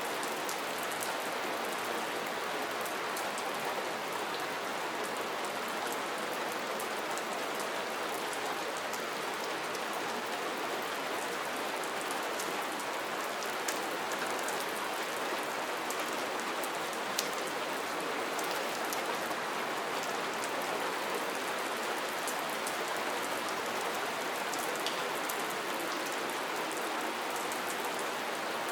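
Soft rain falling steadily, an even hiss with scattered light drop ticks on a surface.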